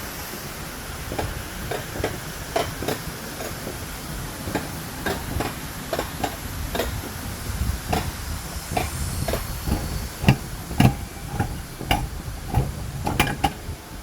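Alpine coaster sled running on its metal rail track: a steady low rumble and hiss with irregular sharp clacks, more frequent and louder from about ten seconds in.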